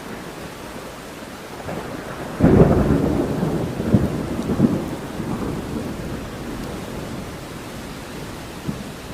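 Thunder breaks with a sudden loud clap about two and a half seconds in, then rumbles on with a couple of further cracks and fades over several seconds. Steady rain falls throughout.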